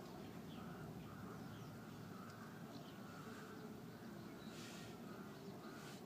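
Faint bird chirps over a low, steady background rumble, with a brief hiss near the end.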